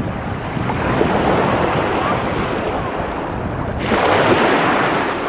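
Black Sea surf washing in, with wind buffeting the microphone; the wash gets louder and hissier about four seconds in.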